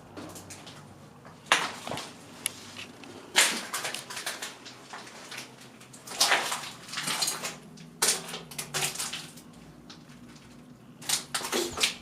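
Irregular crunching and scraping noises every second or two, each starting sharply, of the kind made by footsteps or handling on debris.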